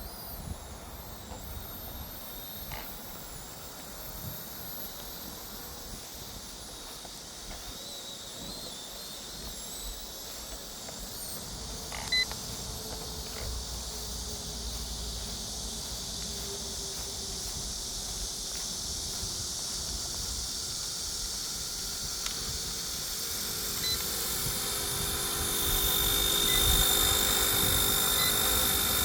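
Small electric motor running up on a 1/30-scale RC helicopter: a few short electronic beeps, then a steady high whine with a low hum beneath it that grows louder in the last few seconds as the rotors spin up.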